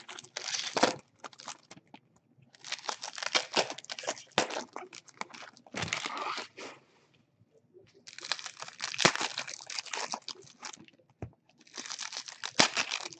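Trading-card pack wrappers crinkling and tearing as packs are opened and handled, in four bursts with short pauses between them.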